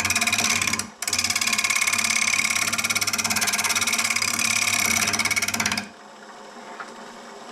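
A turning tool cutting into a mesquite bowl spinning on a wood lathe, a loud rasping cut with a fast, even pulse. The cut breaks off briefly just before a second in, then stops near the end, leaving the lathe running quietly.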